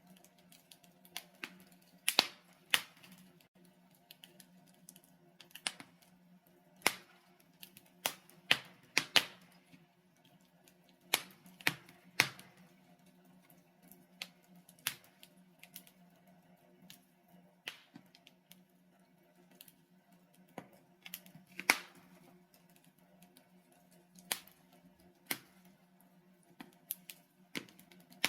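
Logs burning in a fireplace: irregular sharp crackles and pops, about one or two a second, some much louder than others, over a faint low steady hum.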